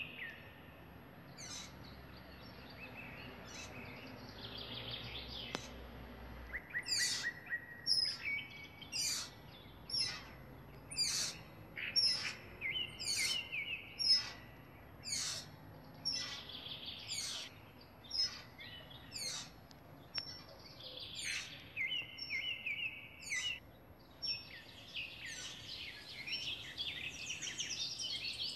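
Birds calling and singing: a series of sharp, high chirps sweeping downward about once a second, mixed with steadier trilled notes, building into a busier jumble of chatter near the end.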